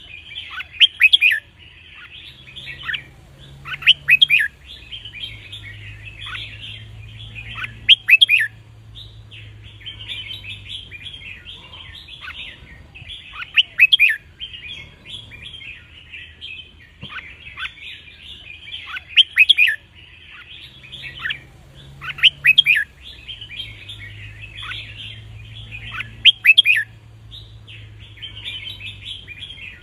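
Red-whiskered bulbuls singing: a continuous chattering warble with loud, sharp phrases every few seconds. The same passage comes round again after about 18 seconds, as in a looped song track.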